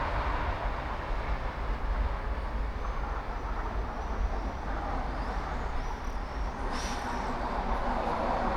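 Steady city ambience heard from high up: a distant traffic rumble with low, uneven wind noise on the microphone.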